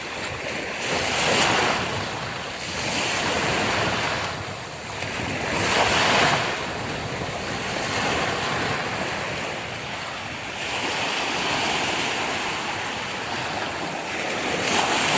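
Sea waves washing and breaking, swelling and ebbing every few seconds, with wind on the microphone.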